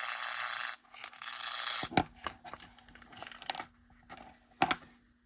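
Static hiss from a small speaker wired to a homemade circuit inside an HO-scale boxcar. The hiss cuts off abruptly, then comes back in broken crackling bursts with several sharp pops, two of them loud. It fades out near the end, with a faint steady hum underneath.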